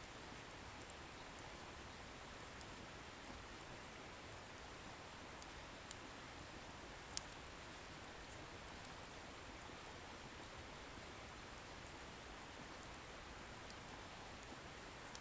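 Wood bonfire burning, a faint steady hiss with sparse small crackles from the firewood and one sharper pop about seven seconds in.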